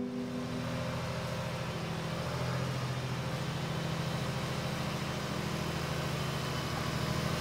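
A vehicle engine idling steadily, a low even hum with no changes in speed.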